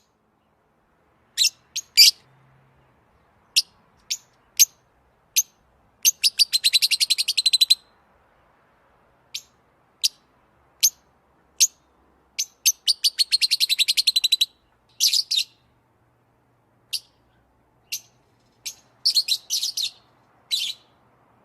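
Small songbird chirping: single sharp high chirps at irregular spacing, broken twice by a rapid run of chirps lasting about two seconds.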